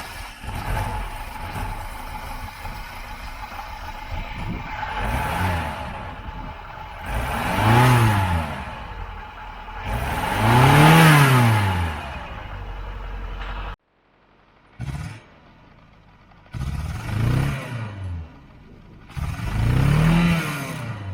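1959 Mercedes-Benz 190SL's 1.9-litre four-cylinder engine idling and being revved in repeated blips, each rising and falling in pitch: three revs, a sudden break, then three more.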